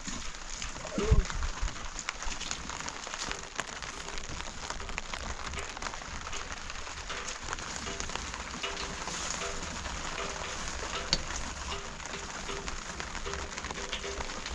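Rain pattering steadily on a surface, with a scatter of small ticks and a single low thump about a second in.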